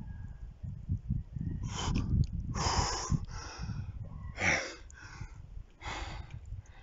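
A man breathing hard after a swim in icy cold water: several heavy, noisy breaths and gasps, about a second apart.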